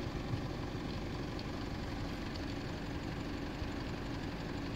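A car engine idling steadily, with a faint steady hum coming in about halfway through.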